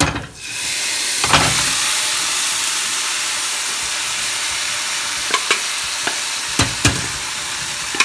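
Boiled tapioca, raw banana, taro and green gram tipped into a hot pot of oil-fried shallots and spices, setting off a loud, steady sizzle as the wet vegetables hit the hot pan. A few short knocks of the pan and spatula against the pot come through the sizzle.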